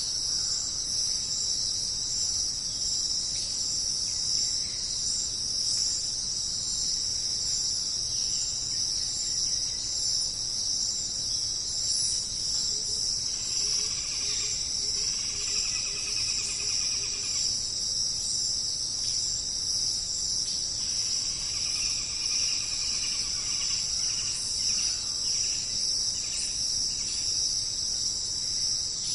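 A dense, steady chorus of crickets. Faint bird calls come through twice in the middle.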